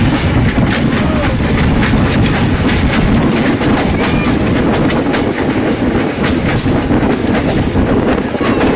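Passenger train coach rolling along the track, heard from an open window: a steady rumble of steel wheels on rail with scattered clicks, and wind rushing across the microphone.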